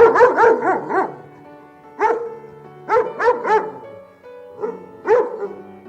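A dog barking in quick runs of one to five short barks, with gaps of about a second between runs, over steady background music.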